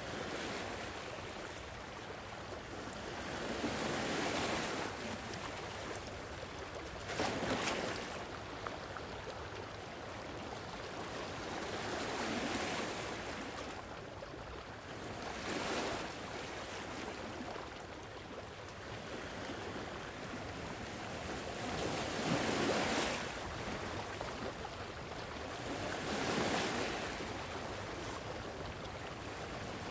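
Sea waves washing onto the shore, swelling and falling back in surges every few seconds.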